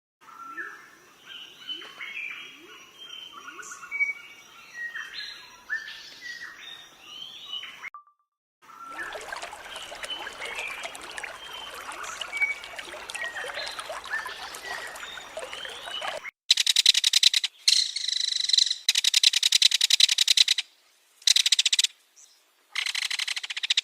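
Small birds chirping and calling, many short calls overlapping, with a brief break about eight seconds in. In the last third this gives way to four loud, rapidly pulsing buzzy bursts, each lasting up to about two seconds.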